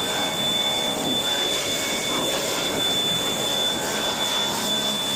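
High-pressure wash wand spraying at a self-service car wash bay: a steady hiss with a thin high whine over it.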